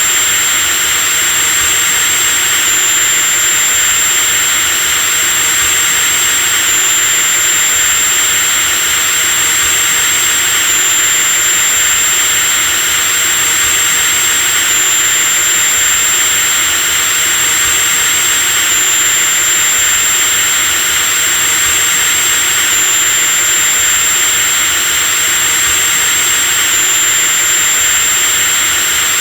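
Electric drill motor running continuously at steady speed, a high-pitched whine over a hiss.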